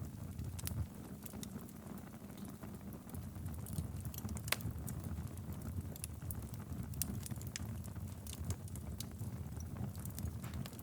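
Wood fire burning in a fireplace: a steady low rumble of the flames with irregular sharp crackles and pops, one louder pop about four and a half seconds in.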